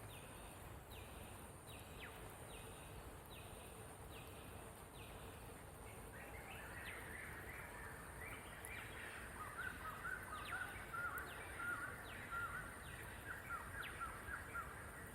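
Wild birds calling. A short falling note repeats about twice a second, and about six seconds in a chattering run of quick chirps joins it and grows louder, over a faint steady high-pitched tone.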